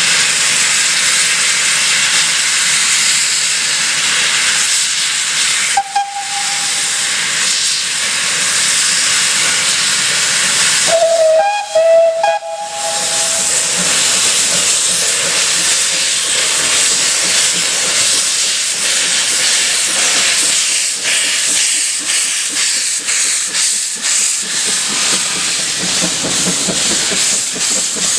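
Vale of Rheidol narrow-gauge steam locomotive hissing steam steadily. Its whistle gives a short toot about six seconds in and a longer two-note blast about eleven seconds in.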